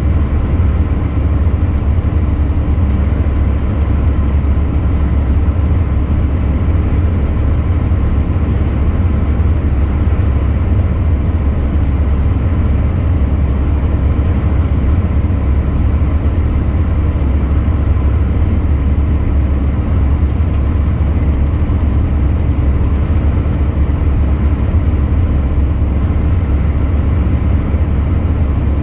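Truck on the road at a steady cruise: a constant low engine drone with tyre and road noise, unchanging throughout.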